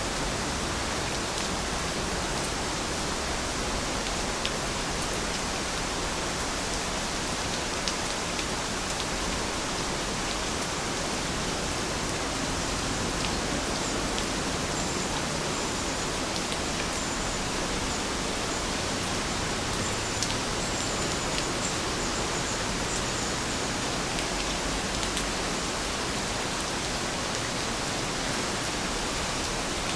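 Heavy rain falling steadily, an even hiss with occasional single drops striking sharply.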